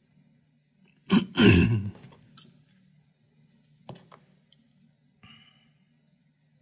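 Hands working a PC power-supply fan and small tools during bearing greasing: a loud scuffing, rustling burst about a second in, followed by a few short sharp clicks.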